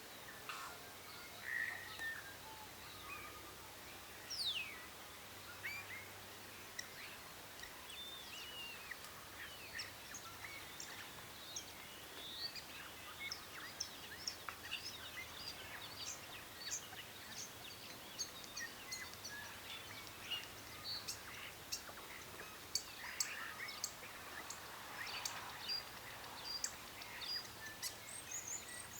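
Birds calling: many short chirps, whistles and quick pitch sweeps, scattered throughout, over a steady background hiss.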